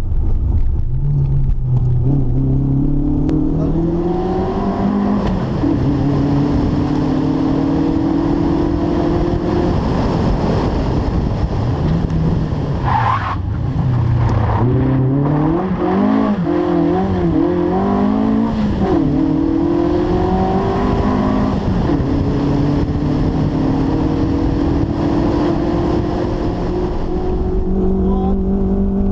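Renault rally car's engine heard from inside the cabin, driven hard: the pitch climbs steadily through each gear, drops at the gear changes, then rises and falls repeatedly through a run of bends in the middle. A brief high squeal comes about thirteen seconds in.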